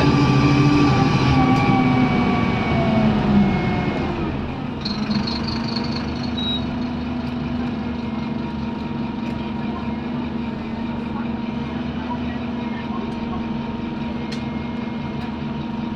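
Scania N230UD double-decker bus's five-cylinder diesel engine running under load for the first few seconds, then dropping to a steady idle. A brief high-pitched tone sounds about five seconds in.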